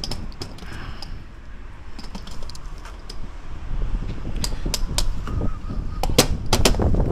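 Sharp clicks and knocks over a low steady rumble, coming more often and louder in the last two seconds.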